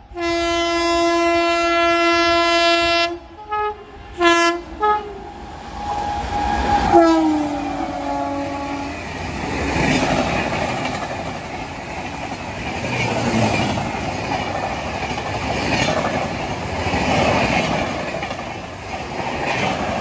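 Indian Railways electric locomotive sounding its horn: one long blast, three short toots, then a final blast that drops in pitch as the locomotive passes at speed about seven seconds in. After that, the coaches rush past with the rumble and clickety-clack of wheels running over the rails.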